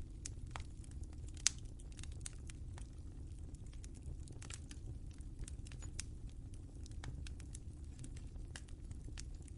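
Wood fire crackling in a fireplace: scattered sharp pops and snaps over a low steady rumble, with one louder pop about a second and a half in.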